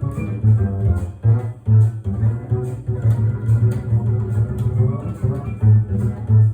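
Double bass played pizzicato: a fast running line of plucked notes, a jazz piano solo transcribed for the bass.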